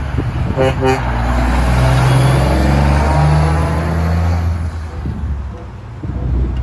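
Heavy truck engine running steadily, a low rumble with hiss over it. It is an added sound effect that cuts in and out abruptly.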